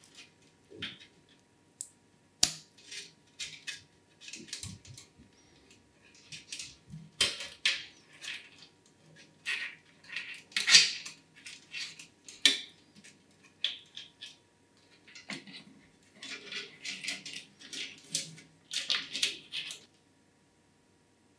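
Hands handling PC parts and hardware: irregular clicks, taps, light metallic clinks and short scraping rustles while a motherboard is fitted into the case.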